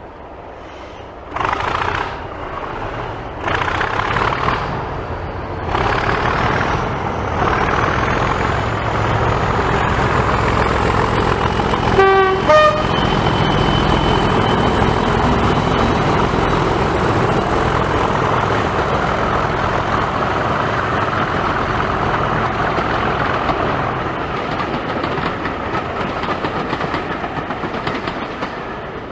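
Diesel locomotive running under power, growing louder in steps over the first few seconds, then sounding a short two-note horn, low then high, about twelve seconds in before running on steadily.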